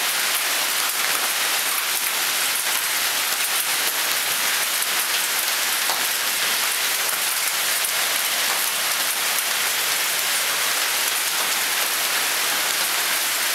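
Hail coming down heavily: a dense, steady hiss of countless small ice impacts on the surfaces around.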